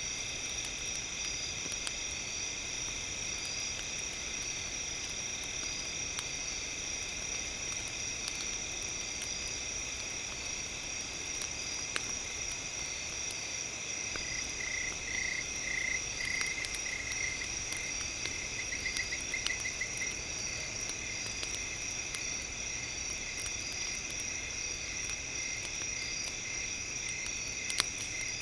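Crackling campfire with a steady, high chorus of chirping insects. About halfway through, a pulsing trill sounds over the chorus for several seconds.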